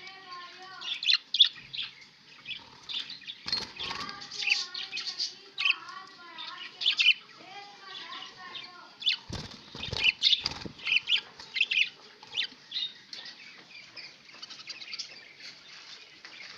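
Budgies chattering: a flock's warbling calls mixed with many sharp chirps, with a few short bursts of wing flapping about four seconds in and again around the middle.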